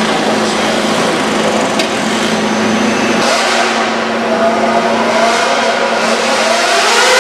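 Motorcycle-engined mini rod tractor puller running hard at high revs, its engine note climbing in pitch over the last couple of seconds.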